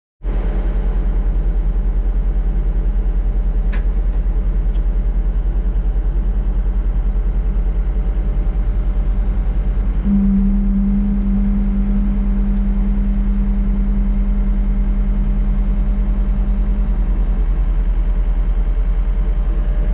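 Diesel engine of a John Deere 326D skid steer running steadily with a deep, even rumble. About ten seconds in, a steady higher whine joins it for some seven seconds and then drops away.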